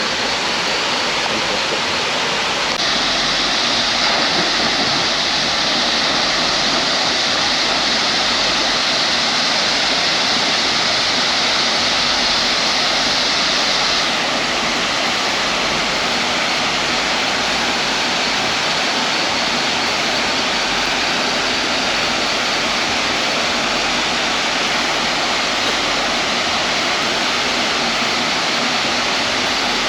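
Maracas Waterfall pouring and splashing into its pool, a steady rushing hiss. The hiss turns brighter and a little louder about three seconds in and eases back about fourteen seconds in.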